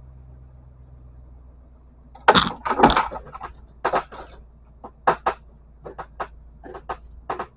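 A low steady hum, then from about two seconds in a string of sharp, irregular knocks and clatters, the loudest first and a dozen or so lighter ones after.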